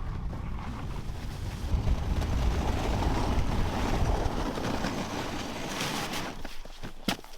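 Dog sled moving along a snow trail: a steady rush of wind buffeting the microphone over the sled's travel noise. It eases off near the end, where a few sharp clicks come through.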